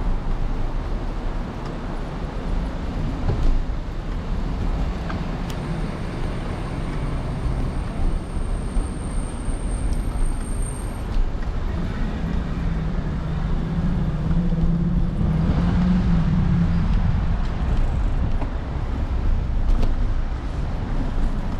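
City street traffic noise: vehicles running and passing, with a steadier low engine drone from about twelve to seventeen seconds in and a faint high whine during the first half.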